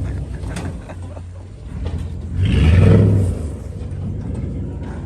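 LS V8 engine of a pickup truck running, surging louder for about a second in the middle as it is given throttle, then settling back to a steady rumble.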